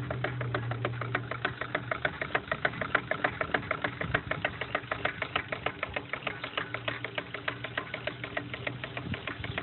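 Small pre-1900s rotary valve steam engine running steadily on a homemade boiler, a rapid even beat of sharp clicks and puffs, about six a second.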